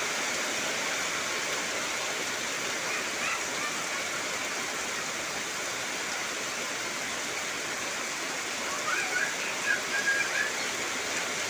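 Heavy rain falling steadily, an even hiss, with a few short pitched calls about three seconds in and again near the end.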